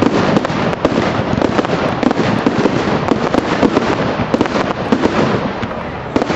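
A fireworks display going off: a dense, continuous barrage of cracks and bangs over crackling.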